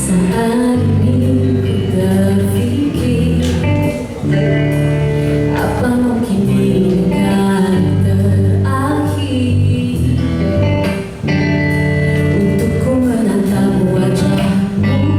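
Live band music played on guitar, bass guitar and drum kit, with a woman singing, and drum hits marking a steady beat.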